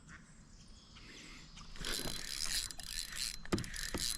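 Water splashing and rustling around a kayak from about two seconds in, with a sharp knock against the hull near the end.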